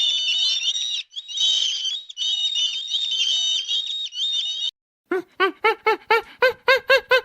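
Many small birds chirping at once in dense, overlapping high-pitched calls. After a sudden cut, an animal gives a rapid run of short, rising-and-falling pitched calls, about four a second.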